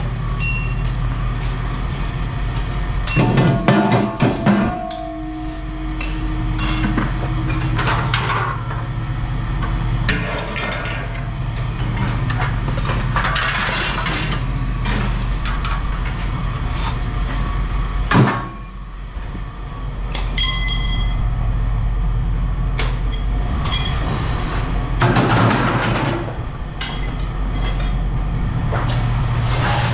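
Scrap aluminum pieces clanking and clattering as they are handled and dropped, with several louder metal knocks. Under it runs a steady low engine hum.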